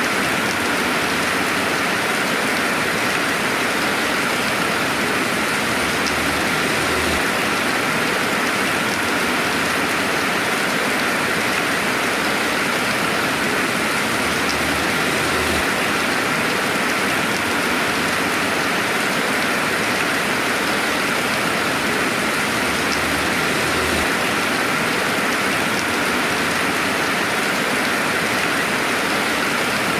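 Steady rainfall, an even hiss of rain falling on surfaces with no thunder.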